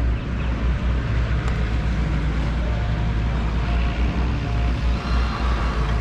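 Backhoe's diesel engine running steadily as the machine digs and shifts silt, a continuous low rumble with faint steady whining tones above it.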